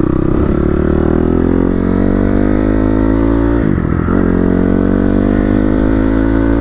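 Dirt bike engine accelerating, its pitch climbing steadily, with a brief drop and recovery about four seconds in as it shifts up a gear, then climbing again.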